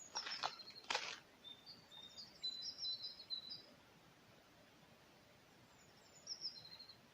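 Small birds chirping in short, high notes, a run of calls from about one and a half seconds in and a shorter one near the end. In the first second there are two short scuffing noises.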